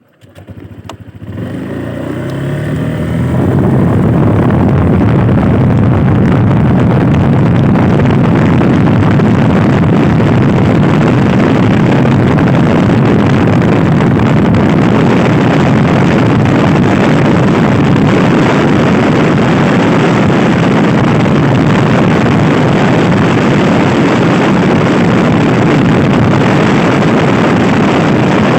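Honda Scoopy i scooter's single-cylinder engine rising in pitch as it picks up speed over the first few seconds. After that, loud wind rushing over the microphone at riding speed buries the engine and stays steady.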